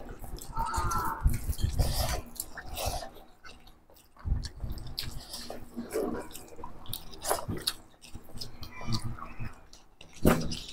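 Close-up eating sounds of people eating rice and chicken curry with their hands: chewing and irregular wet smacks and clicks. Near the end a steel bowl knocks against the plate.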